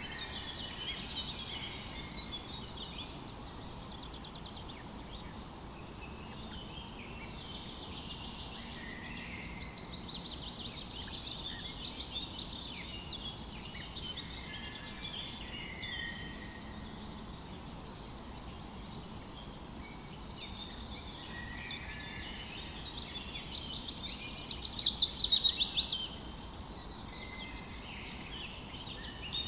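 Several songbirds chirping and singing over a low, steady background hiss, with faint high thin notes repeating every couple of seconds. Near the end, one bird gives a loud rapid trill of quickly repeated notes lasting about two seconds, the loudest sound.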